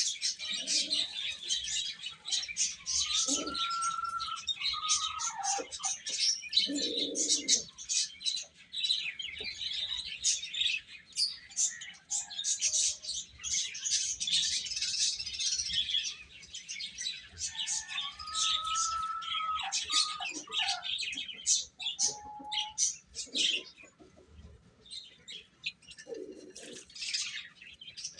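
Baby chicks peeping continuously, many high, short chirps overlapping, with a few lower calls in between.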